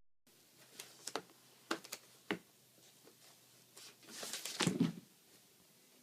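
A few faint, sharp clicks and taps, then a short scraping or rustling noise about four seconds in, in a small room.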